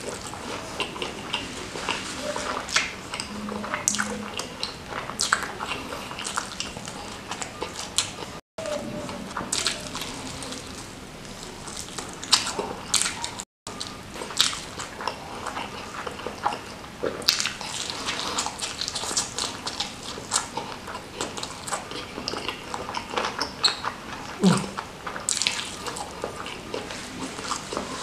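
Close-miked chewing and wet mouth sounds of eating sambal-coated smashed fried chicken (ayam geprek) by hand, a steady run of small smacks and clicks. The sound cuts out for an instant twice.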